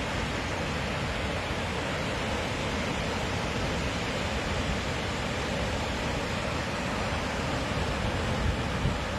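Steady rush of heavy rain or running water, an even hiss across all pitches over an unsteady low rumble.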